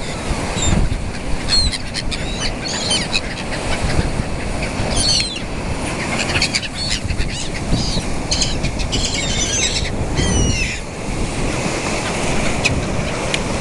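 A flock of gulls calling over one another in short rising and falling cries, thickest about five seconds in and again around nine to ten seconds, over a steady low rumble of wind and water.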